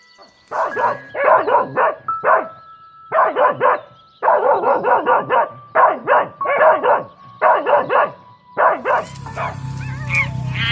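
An animal giving short, sharp calls in quick runs of several a second, with brief pauses between the runs; music comes in near the end.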